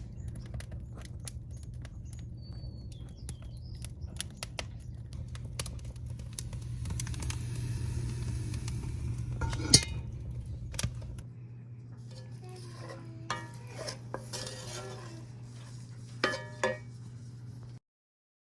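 Metal cooking utensils clinking and scraping against pots and pans, with many small clicks over a steady low hum, one loud clank about ten seconds in and two more near the end. The sound cuts off abruptly just before the end.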